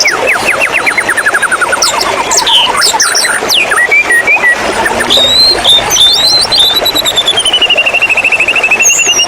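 White-rumped shama singing: a fast run of repeated notes falling in pitch, then varied whistles and a long rapid trill near the end, over steady running-water noise.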